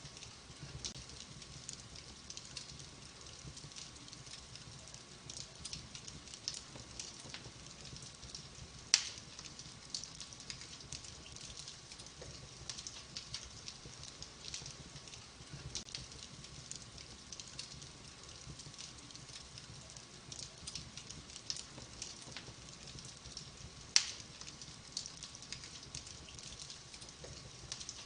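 Wood fire crackling in a fireplace: a steady run of small crackles, with two sharp, louder pops about fifteen seconds apart.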